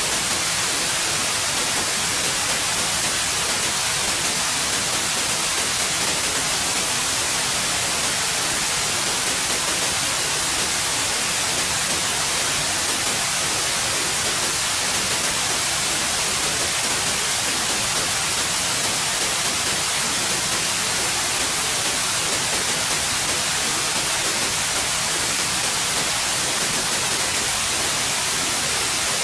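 Steady white noise: an even, unbroken hiss, bright and strongest in the highest frequencies.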